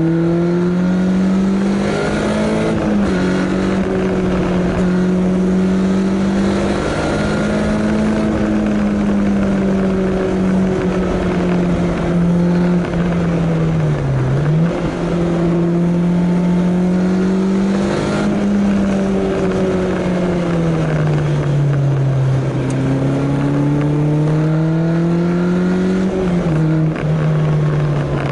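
Caterham 7 sports car's engine under way, its pitch climbing as it accelerates and falling back as it eases off, with sudden drops at gear changes a few times. Wind and road noise from the open cockpit run underneath.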